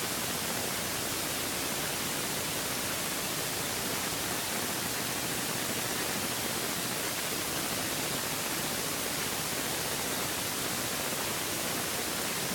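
Steady, even hiss with no pops, bangs or changes.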